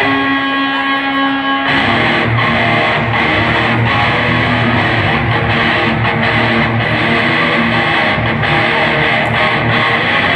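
Live rock band playing, led by electric guitar. A held guitar chord rings for the first couple of seconds, then the full band comes in and plays on steadily.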